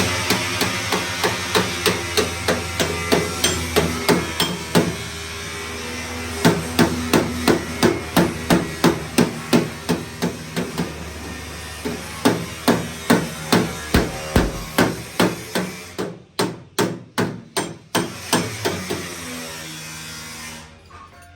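A hammer beats sheet metal in quick runs of about three blows a second, with brief pauses between runs. The metal rings faintly after the blows: this is panel beating of a damaged car door.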